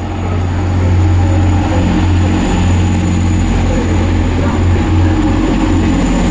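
Class 185 diesel multiple unit's underfloor diesel engines running with a steady low throb, getting louder about a second in as the train prepares to pull away. A thin high whine runs over it.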